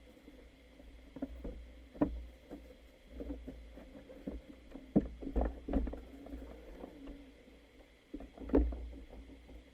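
Irregular knocks and thuds, a few sharper than the rest, over a low rumble and a faint steady high whine.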